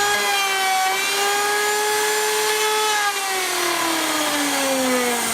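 Wood router motor running with a high whine as its bit cuts up into a wooden sacrificial fence. About three seconds in the whine drops a little in loudness and falls steadily in pitch as the router spins down.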